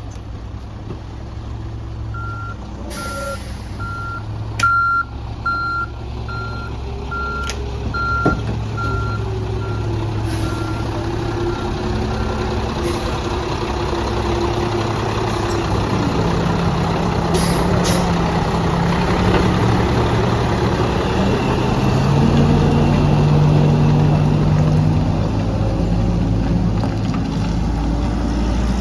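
Garbage truck's diesel engine running while its reverse alarm beeps about every two-thirds of a second, fading out after roughly ten seconds. A few sharp clacks or hisses of air cut in, the loudest about five seconds in. The engine grows louder and higher in the second half.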